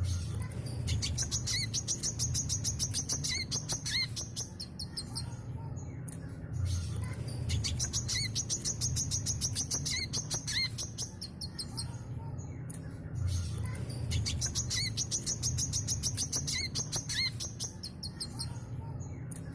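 Brown-throated sunbird (kolibri kelapa) singing in full, continuous song: a fast, high-pitched chattering trill laced with sharp chirps. The bouts come three times, about every six and a half seconds.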